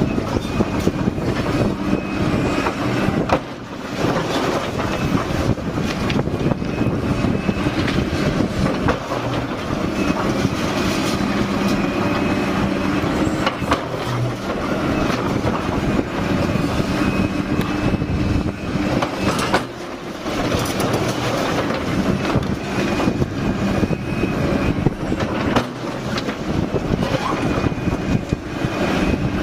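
Liebherr excavator at work: diesel engine running steadily under hydraulic load, with metallic clanks and knocks and a high thin whine that comes and goes. The sound drops off briefly twice.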